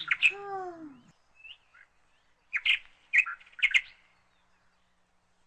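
Small birds chirping: a few faint calls, then three or four short, sharp chirps around the middle.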